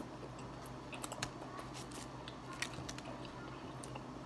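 A person biting into and chewing a double bacon cheeseburger close to the microphone: faint, irregular mouth clicks and smacks.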